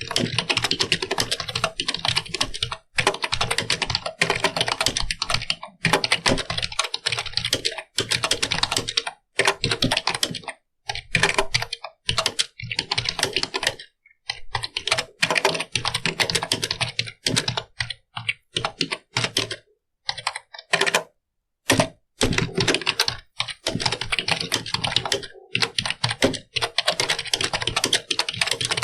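Computer keyboard being typed on: quick, dense runs of key clicks broken by short pauses, the longest lasting just under a second about two-thirds of the way through.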